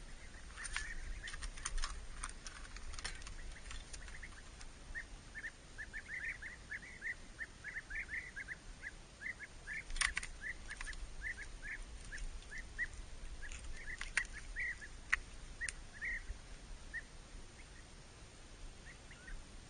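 A small bird chirping in quick runs of short notes, with a few sharp clicks now and then.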